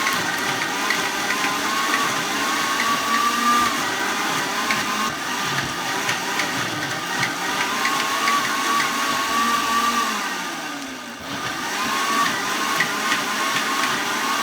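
Electric blender motor running, its pitch wavering as it works; about ten seconds in it winds down almost to a stop, then speeds back up.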